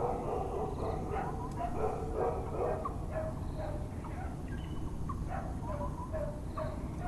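Dogs barking over and over, short yapping barks one after another, over a steady low background rumble.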